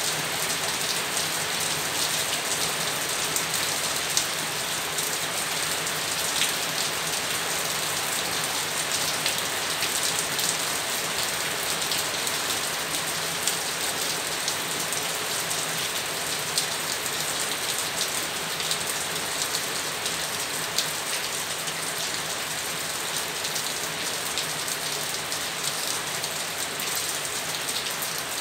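Steady rain falling, an even wash of noise dotted with scattered sharper drop ticks.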